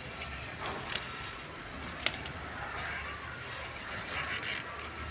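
Rain falling steadily, with one sharp tap about two seconds in.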